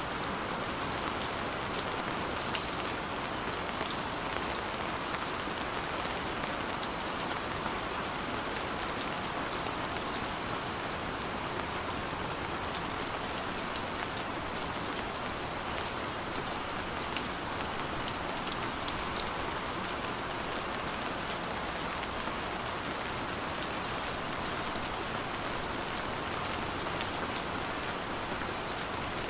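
Steady heavy rain falling on a tent, an even rushing hiss dotted with many sharp individual drop hits.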